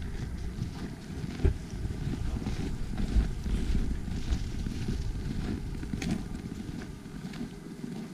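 Wind rumbling on the microphone of a GoPro Hero 5 carried on a Karma Grip gimbal during a walk. A few dull handling thumps come through it, the loudest about a second and a half in and again about three seconds in.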